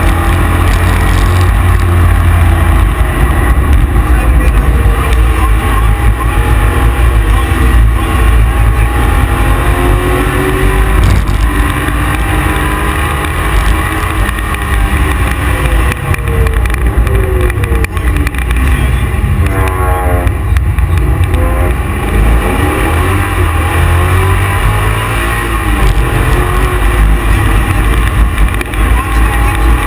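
Ford Escort Cosworth's swapped-in LS1 5.7-litre V8, heard from inside the cabin, running hard on track. Its pitch climbs under acceleration and drops again several times as it changes gear and slows for corners.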